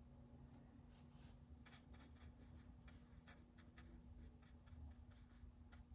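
Faint, short scratching strokes of a paintbrush on watercolour paper, irregularly spaced, over a steady low electrical hum.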